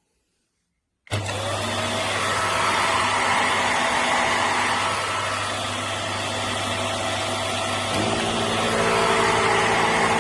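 Vax Mach Air corded upright vacuum cleaner running, a steady motor whine over a low hum, cutting in suddenly about a second in. About eight seconds in, the low hum shifts to a different set of tones.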